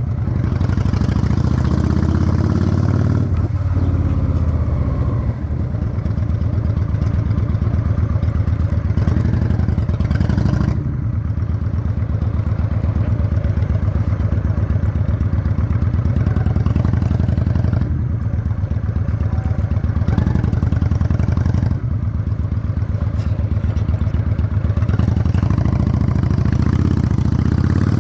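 Honda Shadow 600 chopper's V-twin engine running while the bike is ridden, its note shifting a few times.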